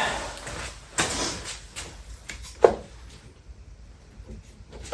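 Handling noise from unpacking a 3D printer: a scrape, then a few sharp knocks and clicks, the loudest about two and a half seconds in, then a quieter stretch.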